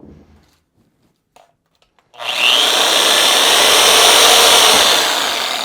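A power tool starts about two seconds in and runs for about four seconds as it cuts into frozen food, a frozen burrito, fading out near the end. A few faint clicks come before it.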